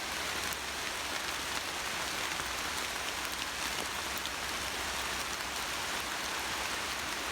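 Steady rain falling through the forest, an even hiss with faint drop ticks.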